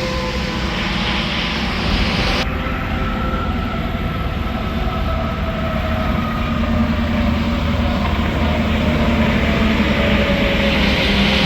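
Interstate highway traffic: trucks passing with a steady rush of tyres and engines, and a slow downward slide in pitch as they go by.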